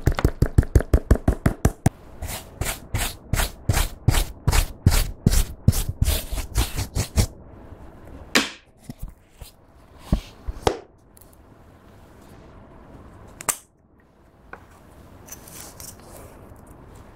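Clear slime being squished and mixed by hand, making sticky clicks and pops: a fast run of about eight a second at first, then slower pops about three a second that stop about seven seconds in, followed by a few scattered pops.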